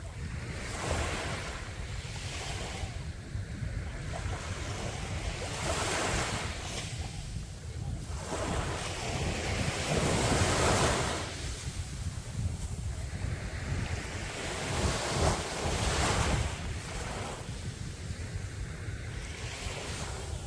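Sea waves breaking and washing up on the beach, surging and falling back every few seconds, with a light drizzle falling. A steady low rumble of wind on the microphone runs underneath.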